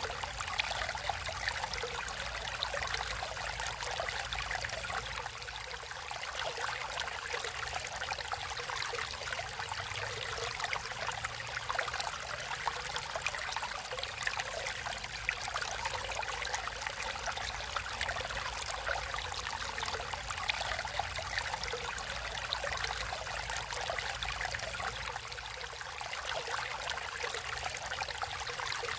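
Water flowing and trickling in a natural stream, a steady splashing with many small bubbling flecks.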